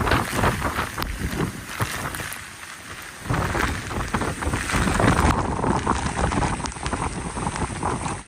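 Hurricane wind buffeting the microphone, with rain. The noise is ragged, dips, then jumps louder about three seconds in, and changes abruptly again about five seconds in.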